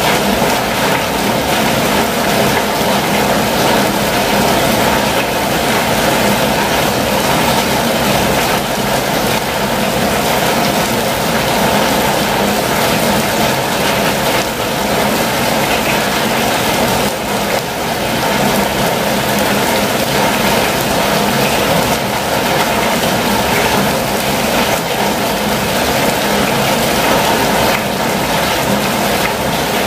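Steady, heavy rain falling on a campervan's roof and windows, an unbroken loud patter.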